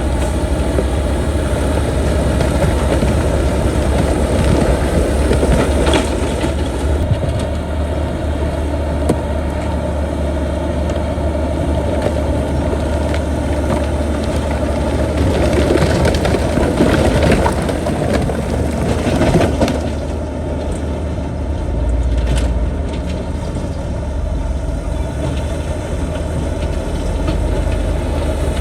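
Bulldozer's diesel engine running steadily at work, with rough crunching and cracking of rock and earth that swells about a fifth of the way in and again a little past the middle.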